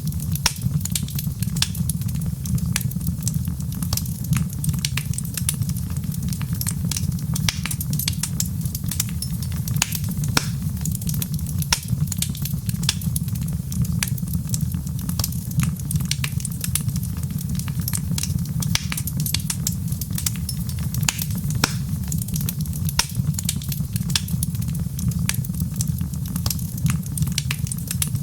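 Wood fire in a fireplace crackling, with many sharp, irregular snaps and pops over a steady low rumble.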